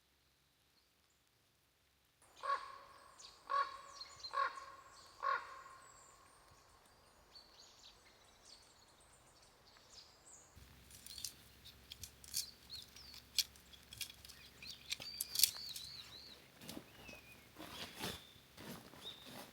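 A bird gives four loud, harsh calls in a row, about a second apart. Later come scattered sharp clicks and brief high bird chirps.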